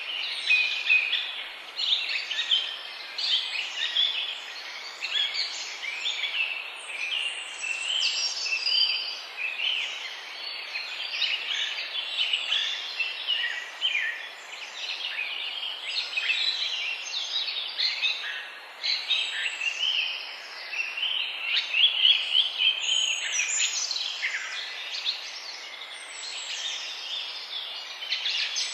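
Several songbirds chirping and singing continuously, many quick overlapping notes and short falling whistles, over a steady background hiss.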